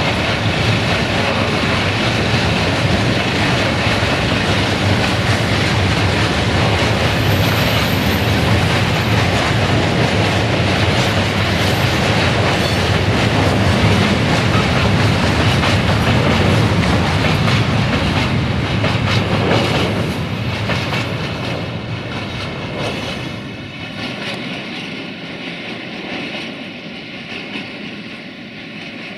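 Freight train of tank wagons rolling past, the wheels clattering over the rail joints in a steady rumble that fades over the last third as the train draws away.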